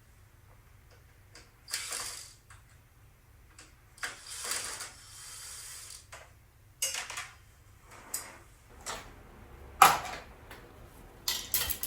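A Panasonic automatic bread maker being taken apart by hand: irregular scrapes, rattles and clicks from its housing and parts, with a sharp knock about ten seconds in.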